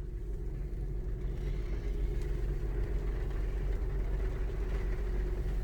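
Car heard from inside the cabin while driving: a steady low rumble of engine and road noise with a faint steady hum.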